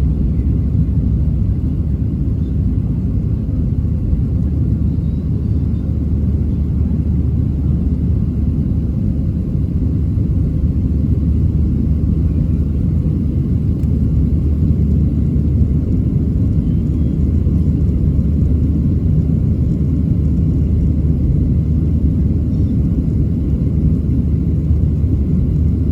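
Boeing 737-700's CFM56-7B jet engines during takeoff: a loud, steady low rumble that holds without change.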